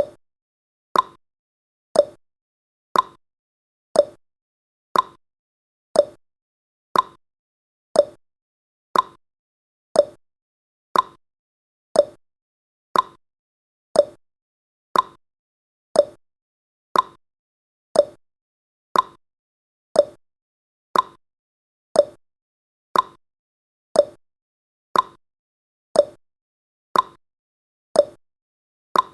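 Countdown timer's ticking sound effect: one short tick every second, alternating between a higher and a lower tick, like a clock's tick-tock, with silence between.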